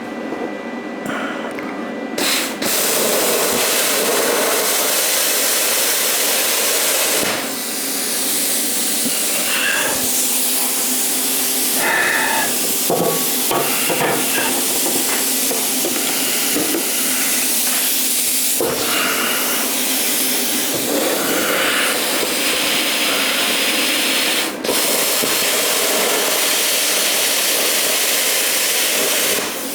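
Everlast 50-amp plasma cutter cutting steel: a loud, steady hiss of the arc and air jet that starts about two seconds in, breaks off briefly a few times as the torch is restarted, and stops near the end.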